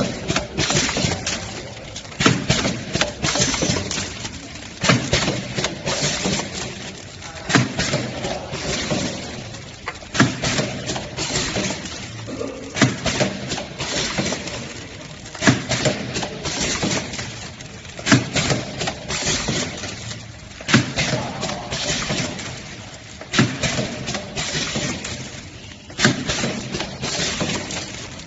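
Pneumatic vertical sachet packing machine cycling, with a sharp clack from its sealing and cutting moulds about every two and a half seconds and lighter clicking and rattling in between.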